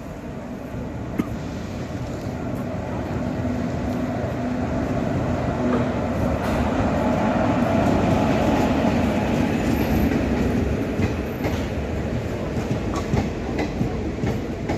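Himachal Express passenger train rolling into the station, its wheels clacking over the rail joints; the rumble grows louder to a peak about eight seconds in, then eases a little.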